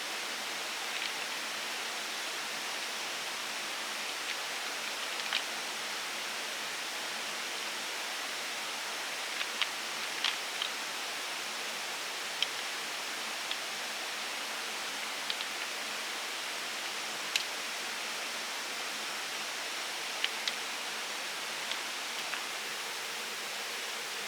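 Steady hiss of water, like rain or a stream, with a dozen or so short, sharp ticks scattered through it.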